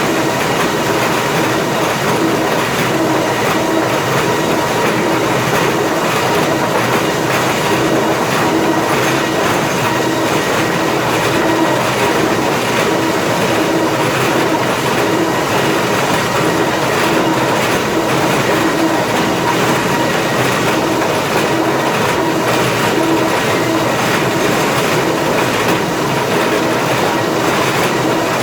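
Lumber planer infeed machinery running: a loud, steady mechanical din with a constant hum and continuous rattling clatter.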